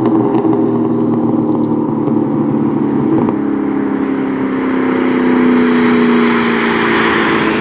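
2004 SVT Cobra's supercharged 4.6-litre V8 running through Borla Stinger mufflers and an off-road X-pipe with a steady exhaust drone. About three seconds in the pitch steps down, then sinks slowly as the engine winds down.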